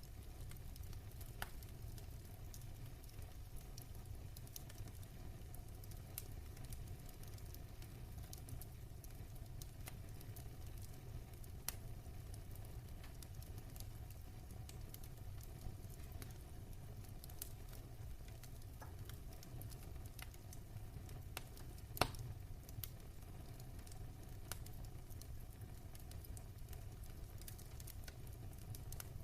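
Fire crackling in a fireplace: scattered small pops and snaps over a steady low rumble, with one sharper pop about three-quarters of the way through.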